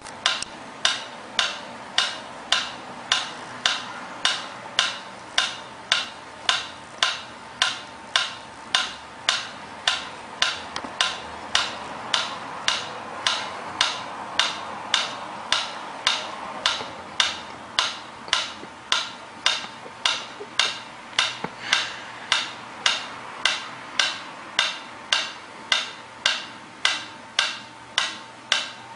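Even, regular ticking clicks, about three every two seconds, with a faint steady hum-like tone underneath.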